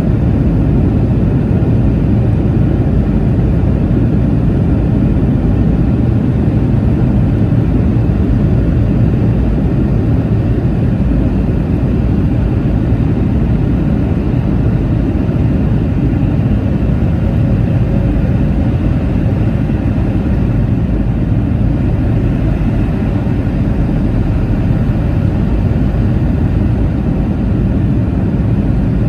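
Steady cabin drone inside a Boeing 717-2BD in flight: the rear-mounted Rolls-Royce BR715 turbofans and the airflow over the fuselage make a deep, even rumble with a fainter hiss above it.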